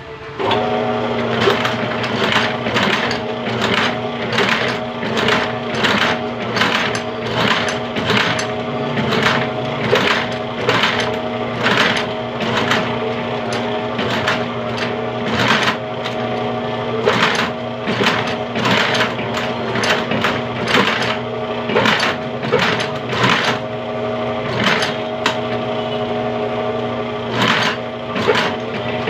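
Electric sewing machine stitching shoe upper material: the machine starts about half a second in and runs with a steady motor hum and repeated needle strokes at about two a second.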